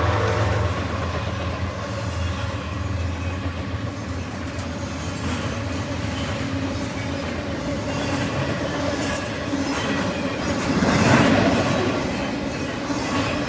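A train rolling past, its wheels clattering on the rails with steady running noise, swelling louder about eleven seconds in.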